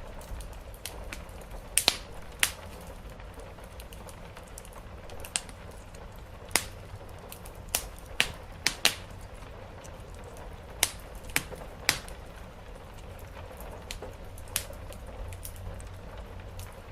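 Wood fire crackling, with a dozen or so sharp pops at irregular intervals over a steady hiss of rain on a roof and a low rumble.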